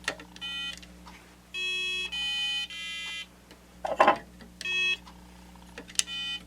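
A Milton Bradley Simon electronic game playing its buzzy beep tones: a short tone, then three in a row, then one more, the game now working after repair. Clicks and knocks of handling the game fall between the tones, the loudest about four seconds in.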